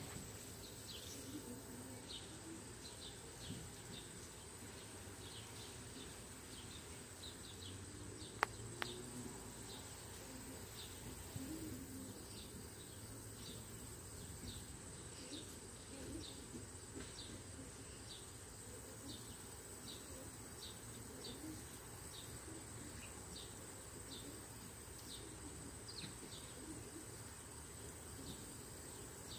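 Faint bird chirping: short high chirps, each falling in pitch, repeating irregularly about once a second. A single sharp click comes about eight seconds in.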